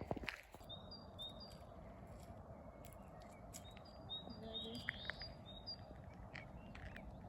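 Small songbird chirping, a string of short high notes repeated every second or so over a faint outdoor background.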